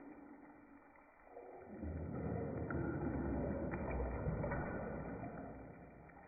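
Bathwater sloshing as waves are stirred up in a bathtub, building about a second and a half in and fading toward the end.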